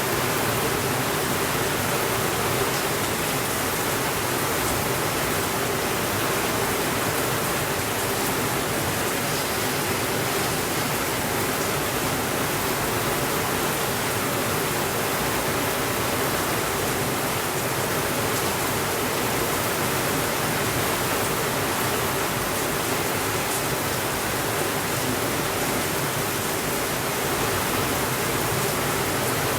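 Steady rain falling, an even hiss that holds a constant level throughout.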